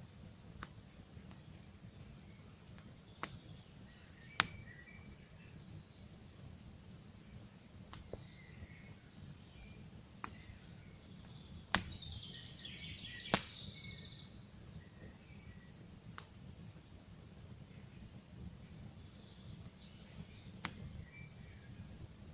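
Campfire crackling, with single sharp pops every few seconds over a low steady rumble; the loudest pops come about four seconds in and twice just past the middle. Small birds chirp over and over, with a denser run of song just past the middle.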